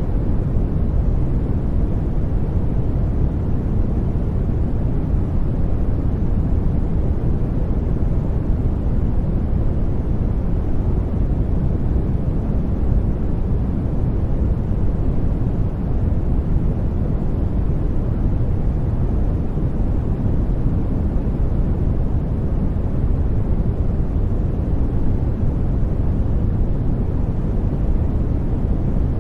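Steady sleep-aid noise track: a deep, even hiss-like noise with most of its energy low and little high hiss, unchanging throughout.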